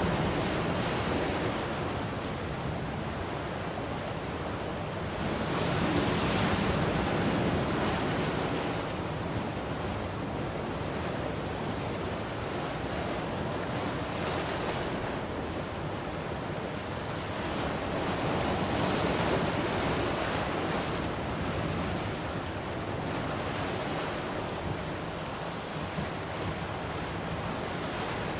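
Ocean waves breaking and washing on a shore: a continuous rush of surf that swells louder near the start, about six seconds in, and again about two-thirds of the way through.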